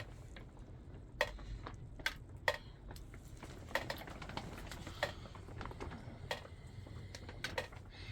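Light clicks and knocks at irregular intervals, several in all, over a low steady background rumble.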